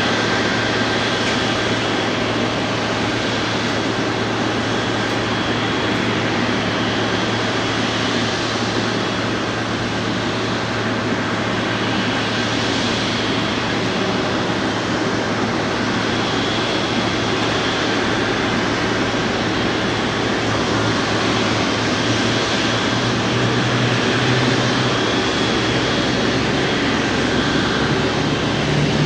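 Jet airliner engine noise, a steady, even rush with a faint high whine. A low hum grows stronger near the end.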